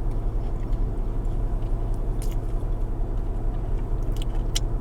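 A few sharp bites into a Crumbl cookie, about two seconds in and again several times near the end, over a steady low hum.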